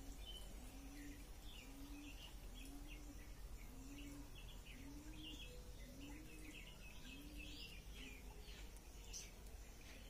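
Faint, scattered bird chirps from small birds, over a low note repeated evenly about every three-quarters of a second that stops a couple of seconds before the end.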